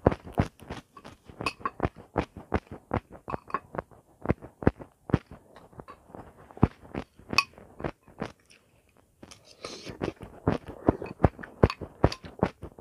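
Close-up crunchy chewing of raw vegetables, a fast run of crisp crunches at about four a second, pausing briefly past the middle. A spoon scrapes and clinks in a bowl toward the end.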